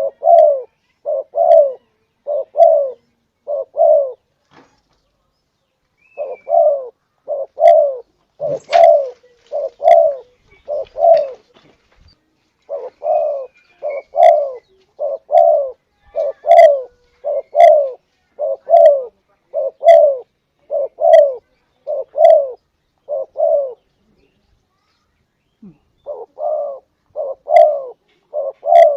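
Spotted dove (tekukur) cooing over and over in quick runs of low coos, with two pauses of about two seconds.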